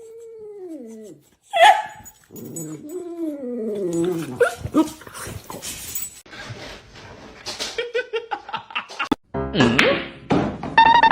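Dog whining and howling in long cries that slide down in pitch, with a short sharp yelp about one and a half seconds in. Later come scattered clicks and rustling, then an abrupt cut to other sounds near the end.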